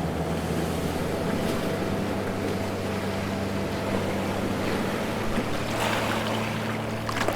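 Sea waves washing and splashing, with a steady low hum underneath.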